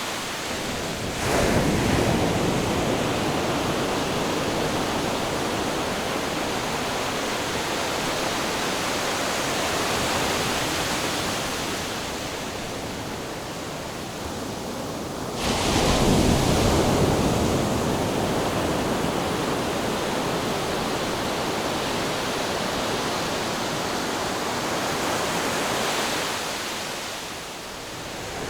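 Ocean surf: a continuous wash of waves. One wave breaks about a second in and another about halfway through, each swelling suddenly and then fading.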